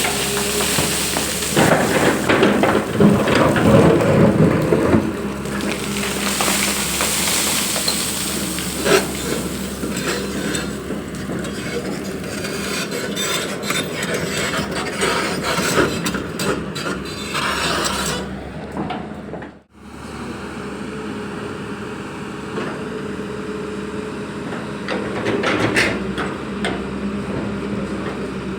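Long-boom excavator working: its diesel engine running with a steady hum, with irregular knocks and rumbling from the digging. The sound cuts out for a moment about two-thirds of the way through, then carries on.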